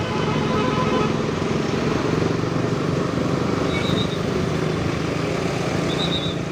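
Motorcycle engine running steadily while riding in city traffic, with road and traffic noise around it. Two brief high-pitched beeps sound, one about four seconds in and one near the end.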